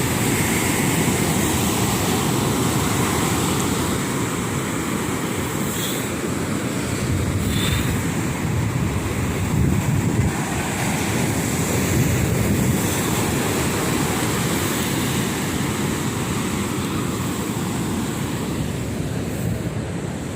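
Large sea waves breaking on a sandy beach: a continuous wash of surf that swells and eases slightly.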